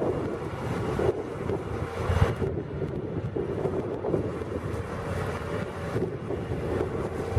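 County 1184 tractor's diesel engine running steadily under load while ploughing, with wind buffeting the microphone.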